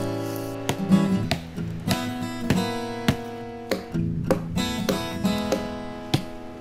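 Background music: an acoustic guitar being plucked and strummed, notes ringing on between strokes.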